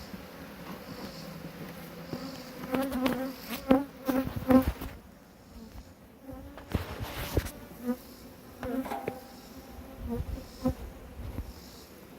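Honeybees buzzing around an opened hive, a wavering hum that runs throughout. A few sharp knocks come around four seconds in, and a brief hiss about seven seconds in.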